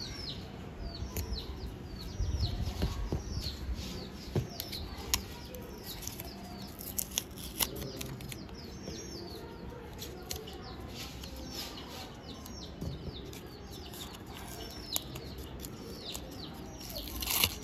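Small birds chirping over and over in the background, short falling chirps several times a second, over the soft rustle and light taps of paper being handled.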